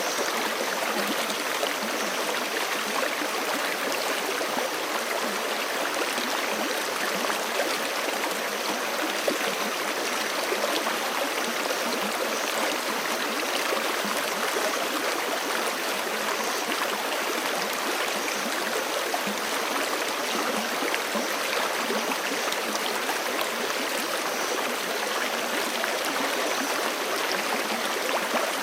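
Forest creek flowing steadily over rocks, an even rushing and babbling of water with small splashes.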